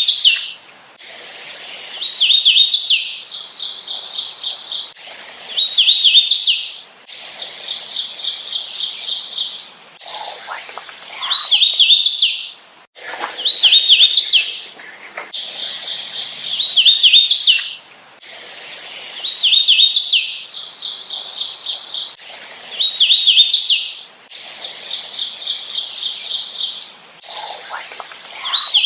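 Hooded warbler singing its song over and over, about every three and a half seconds: a few clear slurred whistled notes ending in a higher, emphatic upswept flourish. Between songs come quick runs of even, repeated notes at the same pitch.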